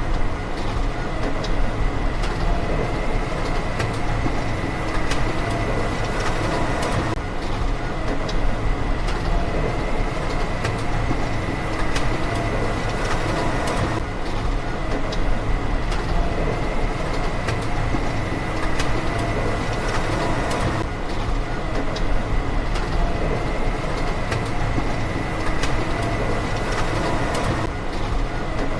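A small motor running steadily, with a thin, steady high whine and scattered ticks over a continuous rumble.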